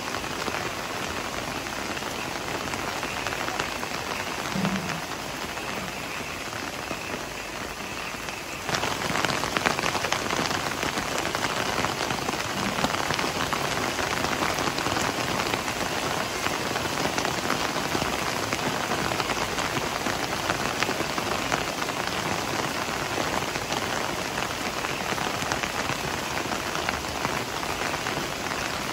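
Heavy rain falling on leafy foliage: a steady, even rush of many drops. About nine seconds in it abruptly becomes louder and brighter, then stays steady.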